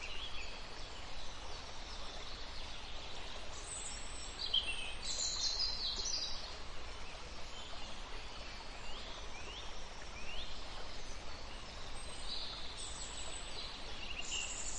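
Small birds chirping in scattered clusters of faint high chirps and short curving calls, about four seconds in, again around nine to ten seconds and near the end, over a steady outdoor background hiss.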